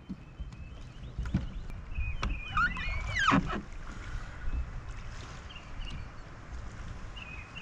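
Kayak on choppy water, with wind rumbling on the microphone and several sharp knocks against the hull. A brief high sliding sound comes about three seconds in.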